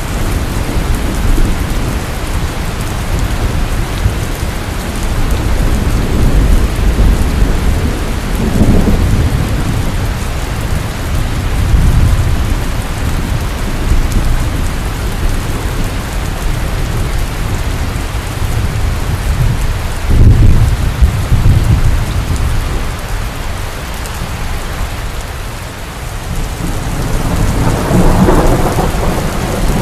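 Heavy rain pouring steadily, with thunder rumbling on and off underneath, swelling to its strongest about two-thirds of the way through and again near the end.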